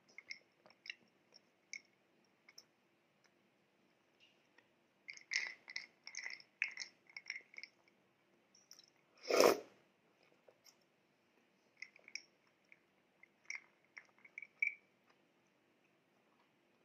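Close-up eating sounds: soft wet mouth clicks and chewing of milk-soaked bread, coming in scattered clusters. About nine seconds in there is one louder, muffled sound lasting about half a second.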